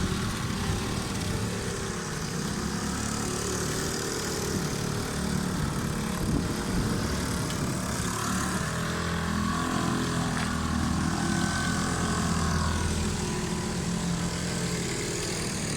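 Several bumper boats' small motors running together, a steady drone whose pitches drift up and down as the boats manoeuvre.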